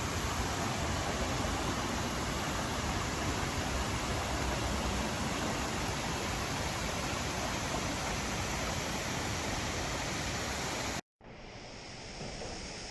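Steady rushing of fast-flowing creek water and a waterfall. About 11 s in the sound cuts out abruptly and comes back quieter and hissier.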